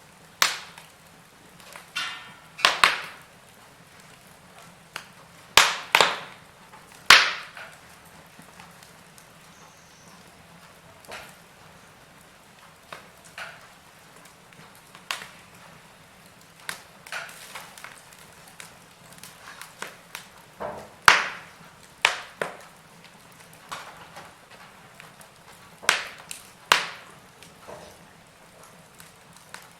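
Wood fire crackling: irregular sharp pops and snaps, some loud and many faint, spaced unevenly over a faint hiss.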